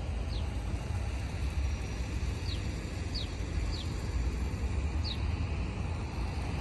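Steady low outdoor rumble, with a small bird giving five short, high, falling chirps spread through it.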